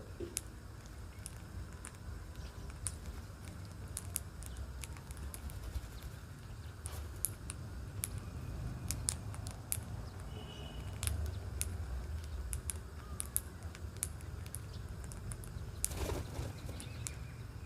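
Small birds calling in short, sharp ticks and chirps scattered throughout, with a brief higher call around the middle and a denser burst near the end, over a low steady rumble.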